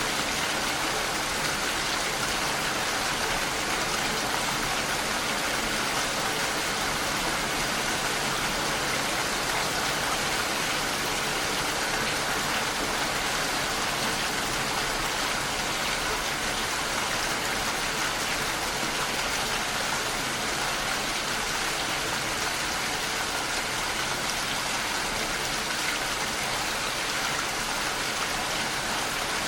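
Steady, even rainfall pattering on a surface.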